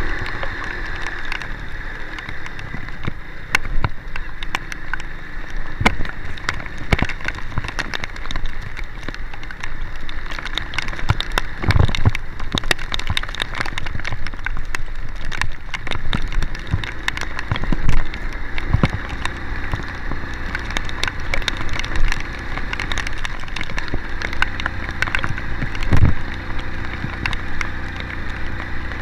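Heavy rain pattering on a moving vehicle over a steady low engine hum, with a few louder knocks or thumps, about four, spread through.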